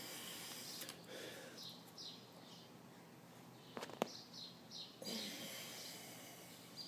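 A bird chirping again and again in short falling notes, over two longer stretches of breathy hiss. A single sharp click about four seconds in is the loudest sound.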